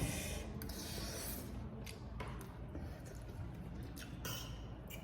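Someone chewing pani puri close to the microphone: soft, wet mouth and squishing noises with a few short crackles and clicks.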